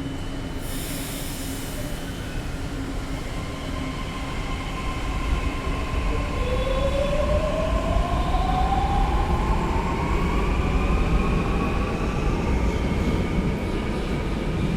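Mumbai Metro electric train rumbling and pulling away: a brief hiss about a second in, then from about six seconds in the motor whine rises steadily in pitch as the train speeds up and the rumble grows louder.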